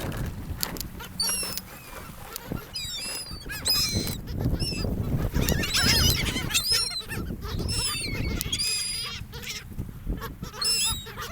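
Many seagulls calling, short harsh cries overlapping in bursts, over a steady low rumble.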